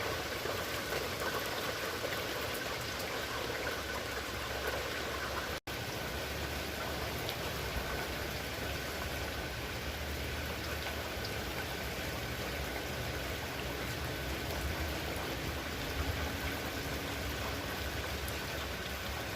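Steady rain falling and pattering on surfaces, an even hiss of drops with a momentary cut-out about five and a half seconds in.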